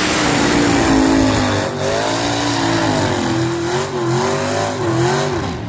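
Truck engine at full throttle, pulling a weight sled, its pitch swinging up and down again and again over heavy exhaust noise, then falling away near the end.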